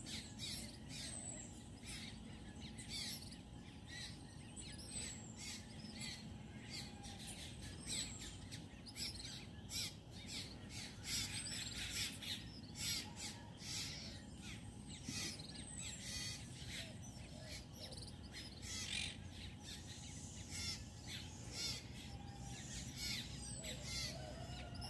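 Faint outdoor birdsong: many short, irregular chirps with a few brief falling whistles, over a low steady background hum.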